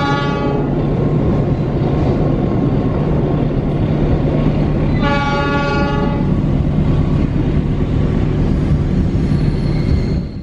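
Passenger train running, heard from inside a coach: a steady rumble and wheel noise on the rails, with two short blasts of the locomotive horn, one at the start and one about five seconds in. The sound fades out near the end.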